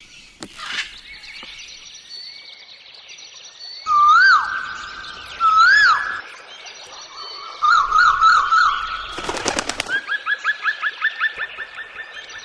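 Birds singing: two loud whistled notes that rise and fall, then a warbling trill. About nine seconds in there is a brief rattle of sharp clicks, followed by a fast run of repeated chirps at about five a second. Fainter high calls continue behind them.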